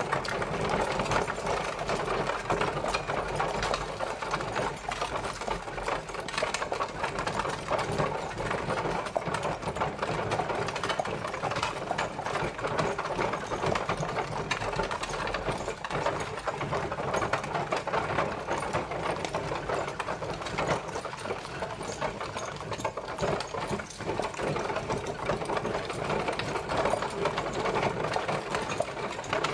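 Horse-drawn carriage travelling: a dense, unbroken rattle and clatter of its wheels and body, steady in level throughout.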